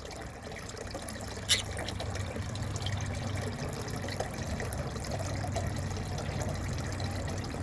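Water trickling steadily, with one short sharp sound about one and a half seconds in.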